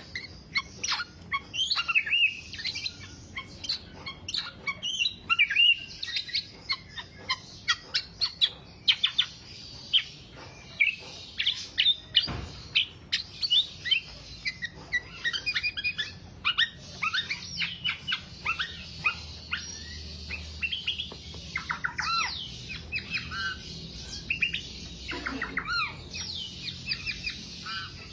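Black-naped oriole (kepodang) singing nonstop, a fast, unbroken stream of quick down-slurred whistles and chattering notes.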